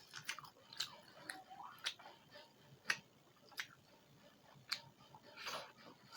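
Close-miked chewing of rice and pork curry, with irregular wet mouth clicks and lip smacks about once a second and a longer smacking sound near the end.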